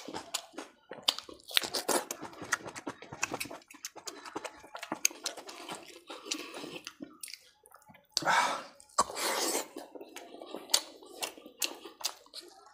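Close-up eating sounds of chicken curry being chewed: wet smacking and crunching clicks in quick irregular succession, with two longer, louder rushing sounds a little past the middle.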